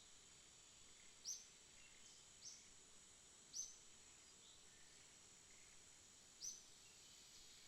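Faint rainforest night ambience: a steady high insect drone with short, high chirps that fall in pitch, four of them spaced a second or more apart.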